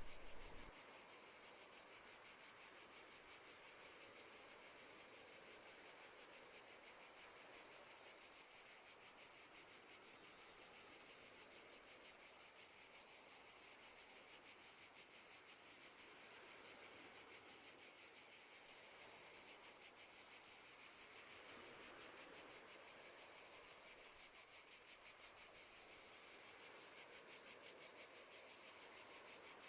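Crickets chirping faintly, a steady, high, evenly pulsing trill.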